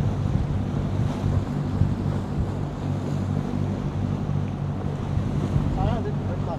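Boat engine running steadily under way, a low even drone, with wind buffeting the microphone and water rushing past the hull.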